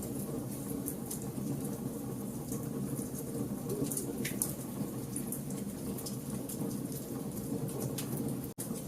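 Fire burning in a fireplace, with frequent sharp crackles and pops over a steady low rumble. The sound cuts out for an instant near the end.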